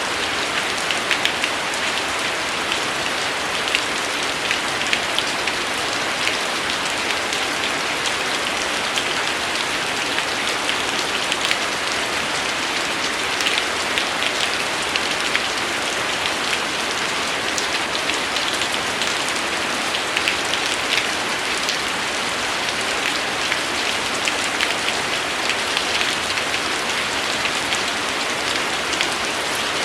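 Steady rain falling, a dense even hiss with many close sharp drop impacts pattering through it.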